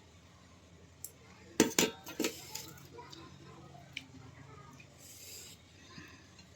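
Tableware clinking at a meal: a few sharp clinks and clatters, the loudest cluster about a second and a half to two seconds in, with softer handling noises between.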